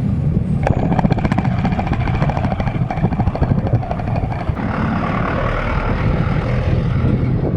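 Wind rushing over the microphone and road noise while riding a bicycle, with fast, regular ticking from about one second in that stops near the middle.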